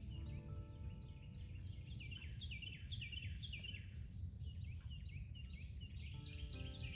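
A songbird repeating short downward-slurred whistled notes, about two a second, over a steady high insect drone and a low rumble.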